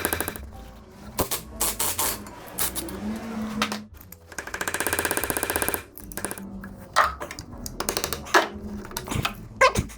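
Hand tools at work on a car's engine bay: scattered metallic clicks and knocks, with a fast rattling run of a wrench lasting about a second and a half near the middle.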